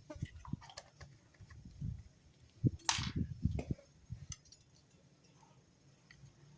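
Irregular light clicks and knocks of tools and parts being handled, with one louder scraping rustle about three seconds in.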